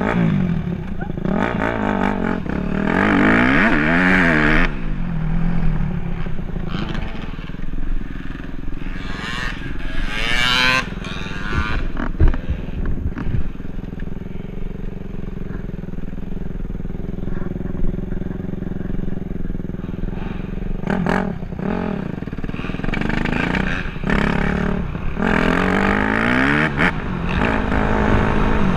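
Dirt bike engine revving up and falling back several times, with steadier running in between.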